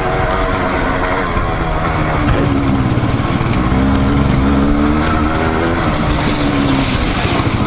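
Dirt bike engine running under changing throttle while riding over loose shale, its pitch rising and falling.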